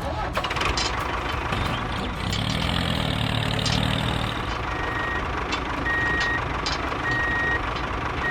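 Vehicle engine running steadily, with a low hum rising for a couple of seconds in the middle, then a reversing alarm beeping about once a second, four beeps, starting about five seconds in.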